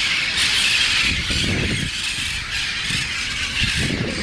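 A large flock of feral parrots screeching and squawking together, a dense unbroken chorus of harsh, high calls.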